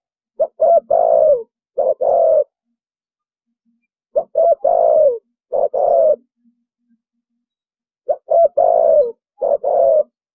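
Spotted dove cooing in the 'thổ bầu' call style. It gives three phrases about four seconds apart, each a couple of short notes followed by longer ones.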